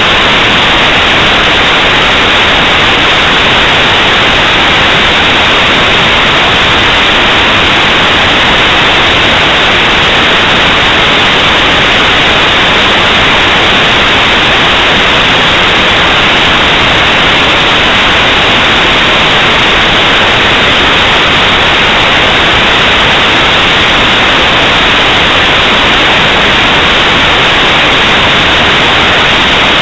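Loud, steady static hiss with no other sound in it, unchanging throughout.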